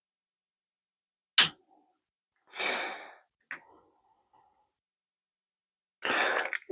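A sharp click about a second and a half in, then a few short rustling or scraping noises and a faint tick, typical of tools and parts being handled on a workbench.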